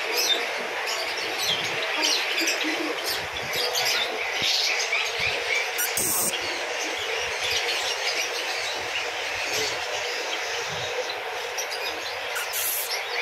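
Many small caged birds chirping at once: a dense, continuous chatter of short, high chirps.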